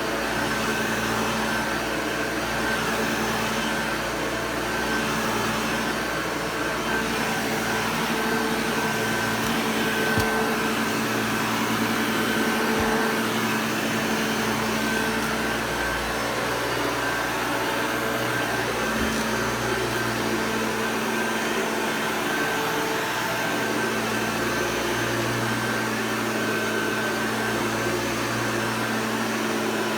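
Hoover Junior upright vacuum cleaner running steadily while it picks up carpet powder: a constant motor hum and whine, with a few brief clicks along the way.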